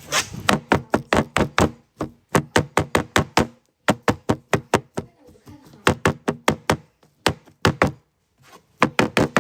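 Knife chopping chives on a cutting board: quick, even strokes, about six a second, in runs broken by short pauses.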